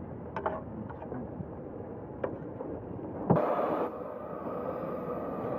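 Case 150 hp steam road locomotive working under load, a steady mechanical noise with a few faint knocks. A little past halfway there is a sudden short burst of noise, and after it the engine sounds louder and steadier.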